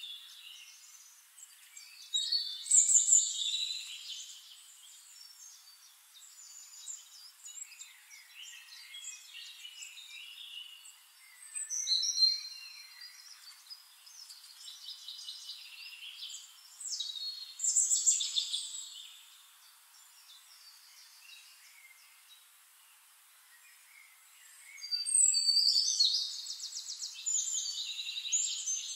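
Small birds chirping and singing in high-pitched bursts with quieter gaps between, the loudest about three seconds in and just before the end, where a fast, even trill runs on.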